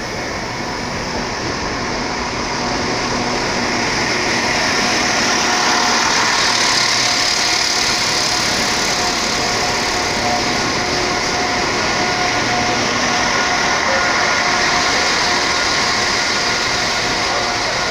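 Red-and-grey passenger train passing close by along the platform: a steady running rumble of wheels and motor, loudest about halfway through, with a faint steady whine over it.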